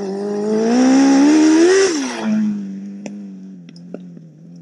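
Honda CBR600 inline-four engine in a dirt-bike frame accelerating hard, its pitch rising for nearly two seconds with a hiss over the top, then dropping at a gear change or throttle-off and carrying on steadily as it fades away.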